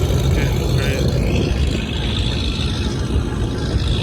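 Car engines running steadily with a deep rumble, with faint voices of a crowd mixed in.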